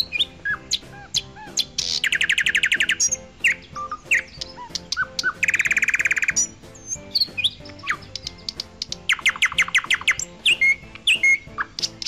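Songbirds chirping, with three rapid trills spread through, over soft background music.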